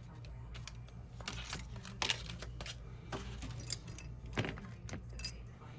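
Irregular small clicks and taps of small metal repair tools and phone parts being handled during a phone repair, over a steady low hum.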